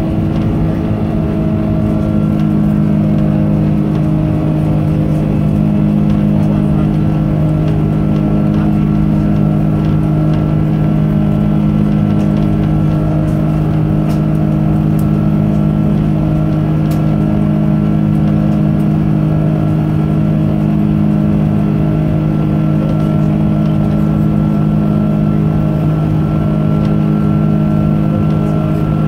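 Airbus A330-200 jet engines at high thrust, heard as a steady drone from inside the passenger cabin, with several held tones over an even rush of air.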